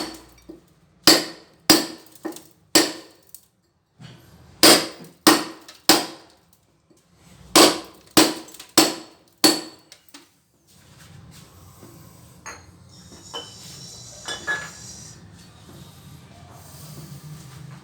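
Small hammer striking a cold chisel, chipping old tiles and water-damaged mortar off a wall: about a dozen sharp strikes in three quick bursts, stopping about ten seconds in. A low steady hum and a few light clinks follow.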